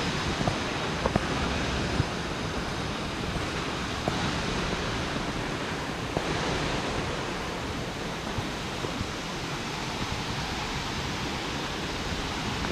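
Steady rush of flowing water from a mountain stream and its cascades, an even hiss with no let-up, with a few faint ticks over it.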